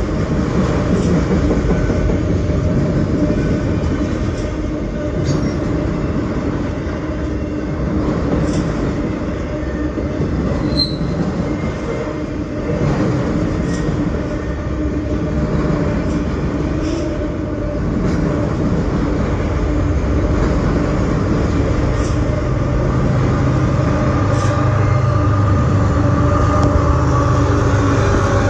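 A freight train of autorack cars rolls past close by, with a steady rumble of steel wheels on rail and occasional clicks. In the last several seconds it grows louder as a mid-train GE ES44AH diesel locomotive comes alongside, its engine running.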